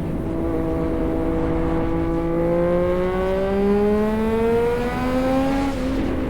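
Triumph Street Triple 765 RS inline three-cylinder engine pulling under steady throttle, its pitch rising slowly for about six seconds, then settling slightly lower near the end.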